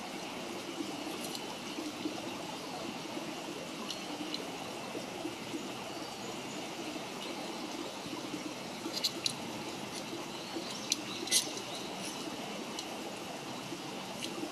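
Wood campfire burning with a steady hiss and a few sharp crackles and pops, most of them clustered between about nine and eleven seconds in.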